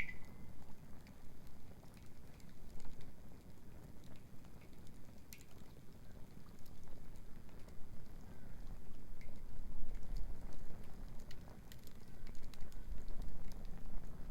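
Wood bonfire crackling, with scattered sharp pops over a steady low rumble.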